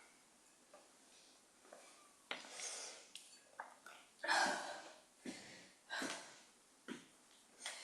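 A person breathing hard, with loud noisy breaths in and out about every second, recovering from an all-out cardio set. The first couple of seconds are quieter before the heavy breaths begin.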